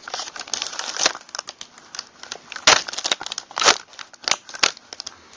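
Hands handling small metal shotgun parts on a work surface: a run of scrapes and small clicks, with a few sharper clicks in the second half, while the cartridge stop is picked out and fitted.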